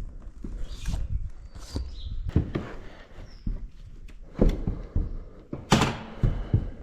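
Irregular knocks and thumps, with a short hissing rush a little under six seconds in and a few brief high chirps.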